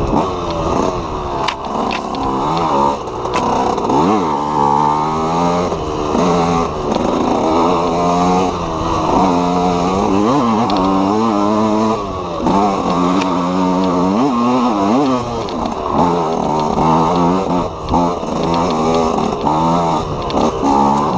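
KTM EXC 125 two-stroke single-cylinder enduro engine being ridden hard, revving up and dropping back again and again, its pitch rising and falling every second or two.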